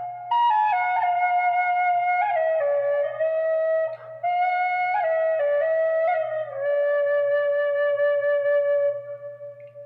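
Celtic flute played solo: a slow melody of held, stepping notes with small quick ornamental flicks between them. The phrase ends on a long low note that fades away near the end.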